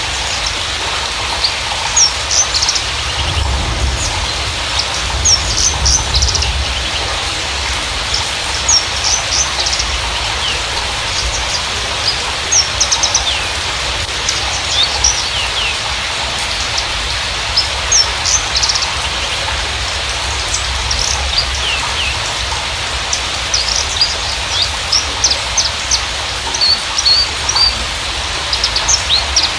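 Javan bushlark song: quick phrases of short, high chirps, trills and down-slurred notes, coming in scattered bursts throughout, over a steady hiss.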